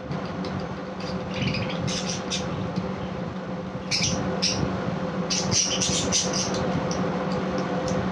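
Budgerigars chirping, short high chirps coming in two clusters, over a steady low hum.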